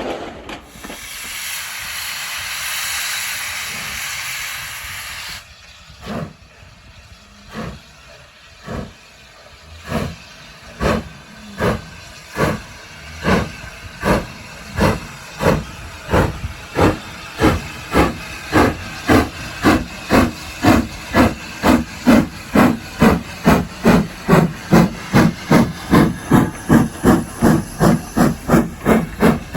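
A steam locomotive releases a loud hiss of steam for several seconds, which then stops. It then starts away with exhaust beats, slow at first, about one a second, quickening to two or three a second and growing louder as it gathers speed.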